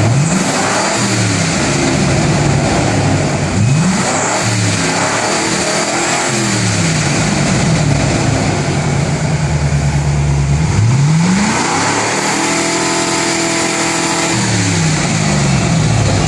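Ford Cougar XR7 engine revved several times through an aftermarket exhaust with an 18-inch resonator and high-flow mufflers, the pitch rising and falling back with each blip and twice held steady at raised revs for a few seconds. The exhaust note is meant to be smooth and subdued rather than loud.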